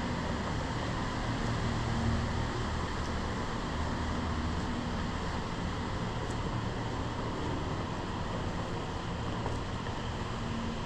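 Steady low rumble and hiss of background noise with a faint hum, unchanging and with no distinct events.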